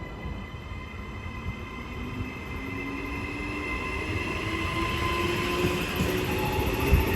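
Trenitalia ETR621 'Rock' electric multiple unit running through the station, growing steadily louder as it comes closer, with a rumble and electric motor whines, one of them slowly rising in pitch.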